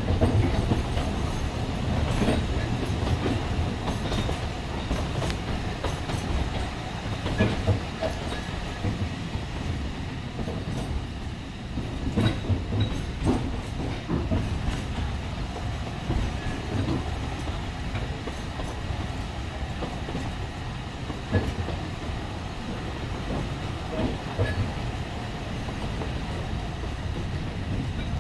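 Alishan Forest Railway narrow-gauge train running along the line: a steady low rumble of wheels on rail, broken by irregular clacks and knocks from the carriage.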